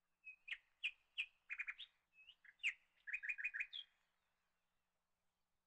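Bird chirping: a quick series of short, sharp chirps in two runs, lasting about three and a half seconds.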